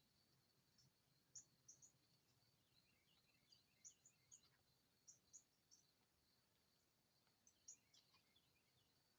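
Faint birdsong: a dozen or more short, sharp high chirps in quick clusters, with a few lower falling notes, over a faint steady high tone.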